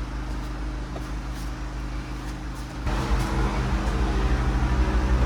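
An engine running at a steady idle, a low hum with several even tones, that gets louder and more throbbing about three seconds in.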